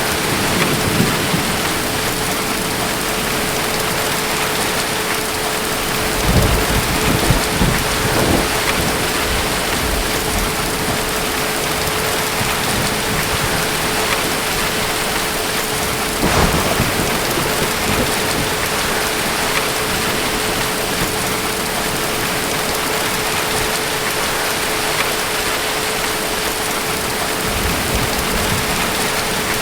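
Heavy, steady rain of a night thunderstorm, with rolls of distant thunder rumbling about six to nine seconds in and again briefly around sixteen seconds.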